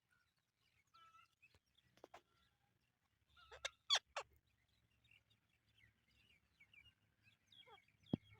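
Indian ringneck parakeets calling: faint scattered chirps, with a group of three short sharp calls about four seconds in and another near the end.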